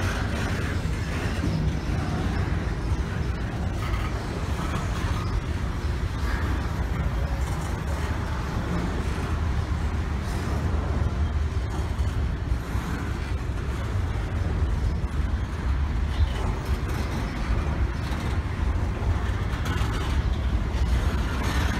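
Double-stack container well cars of a slow Canadian National intermodal freight train rolling past, a steady low rumble of steel wheels on the rails.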